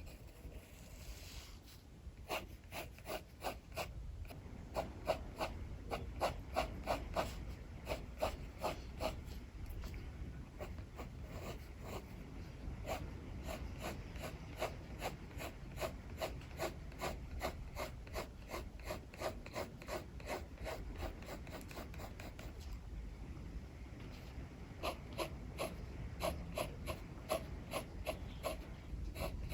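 Rapid back-and-forth sketching strokes on paper, several scratchy strokes a second, with a brief pause near the end. Underneath is a steady low rumble of strong wind.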